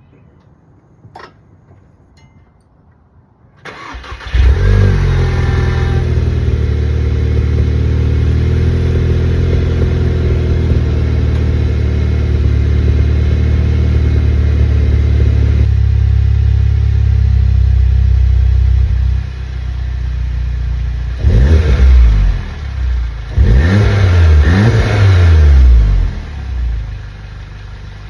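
2017 Volkswagen GTI Mk7's turbocharged 2.0-litre four-cylinder, breathing through a Rev9 exhaust and APR intake, cranks and catches about four seconds in after a few faint clicks. It idles high at first, settles to a lower idle, then is revved twice, a short blip and a longer rev, before dropping back to idle.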